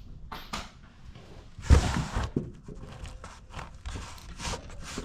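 Wrenches and tools being handled on the mower while trying a different size on a bolt: a run of short clicks and knocks, with one heavier knock just under two seconds in.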